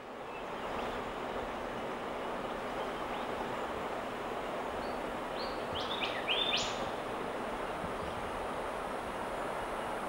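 Steady outdoor background hiss, with a quick series of four or five short, high whistled bird notes about five to seven seconds in.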